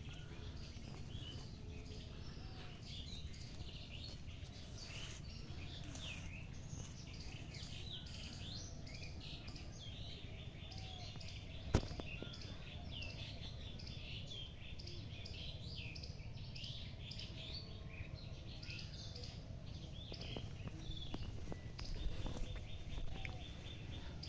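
Small birds chirping, many short calls through the whole stretch, over a low steady rumble; a single sharp click about halfway through.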